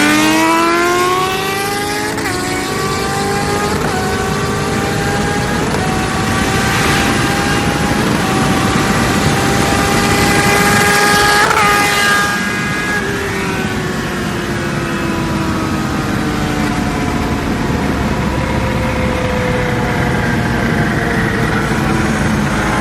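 Engine at full throttle, its pitch climbing and dropping back at each of several gear changes, then falling away about halfway through as it comes off the throttle and slows.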